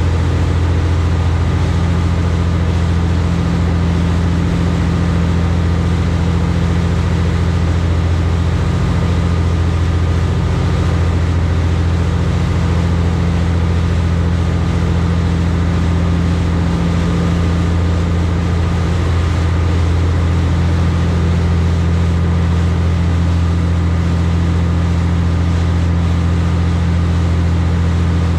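High-speed passenger boat's engines running at cruising speed, a steady low drone heard from on board.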